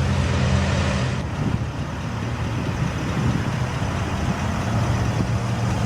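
BMW X5 M's twin-turbocharged 4.4-litre V8 idling steadily, a low even hum under a rushing noise.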